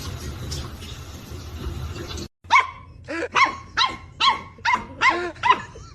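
A dog barking in a quick run of short barks, about two to three a second, starting after a sudden break about two seconds in. Before the break there is a steady rustling background noise.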